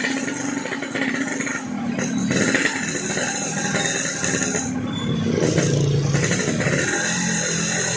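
Yamaha RX-King's single-cylinder two-stroke engine running through a gutted (bobokan) exhaust while riding, its pitch rising and falling with the throttle, with a haze of wind and road noise.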